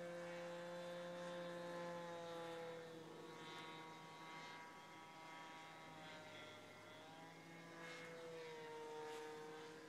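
Faint buzz of a radio-control P-51 model's glow-fuel engine and propeller as the plane flies around. Its pitch drops about three seconds in and glides down again near the end as the plane passes and the throttle changes.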